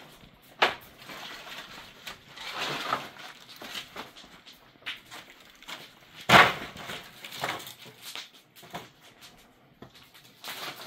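A few sharp knocks or clatters, the loudest about six seconds in, with fainter scraping and shuffling sounds between.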